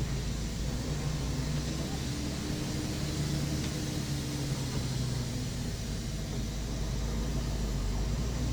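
Intercity bus's diesel engine running at low speed, heard from inside the cabin: a steady low hum whose pitch drifts slightly up and down, over even road and cabin noise.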